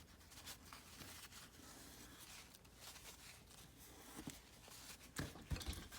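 Faint rustling and light taps of scrapbook paper being handled and pressed down, with a few soft thumps a little past five seconds in.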